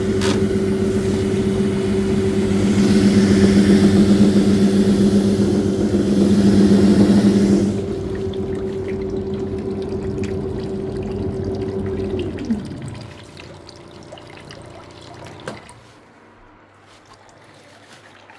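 Washing machine running, its motor humming steadily under a rush of water that stops about eight seconds in. The motor hum then winds down in pitch and dies out a few seconds later, leaving a quiet background with a single click.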